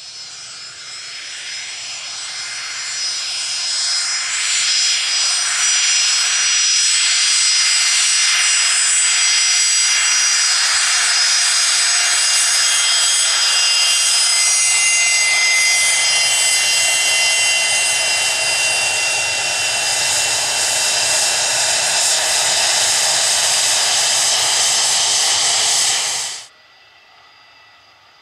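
Fokker 100's twin turbofan engines at takeoff power: loud jet noise with several steady high-pitched whining tones, building over the first few seconds, then holding steady. It cuts off suddenly near the end, leaving a faint hiss.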